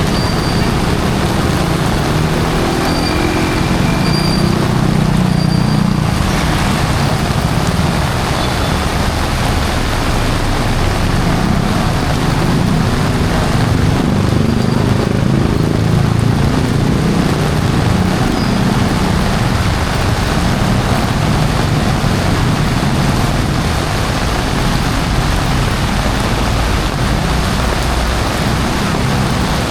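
Heavy rain falling steadily, mixed with the rumble and tyre hiss of cars, trucks and buses passing on a wet city road.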